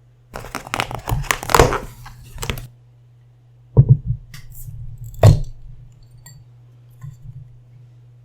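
Close-miked crunching and crackling of food being handled or bitten for about two seconds, then two separate knocks about a second and a half apart, like a utensil or dish set down, over a low steady hum.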